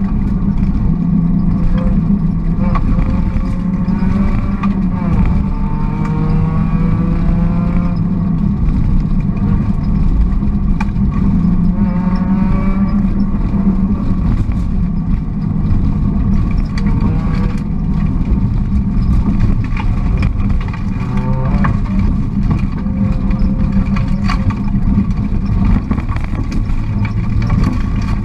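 Volkswagen Golf GTI rally car's engine heard inside the cabin at full stage pace, revving up through the gears with repeated rising pitch sweeps between gear changes. Brief knocks and rattles come through the car body.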